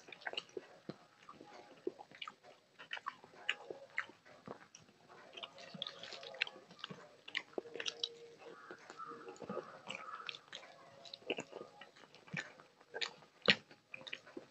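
Close-miked chewing and wet mouth sounds of a person eating rice and curry by hand, with many short smacking clicks; one sharper, louder click comes near the end.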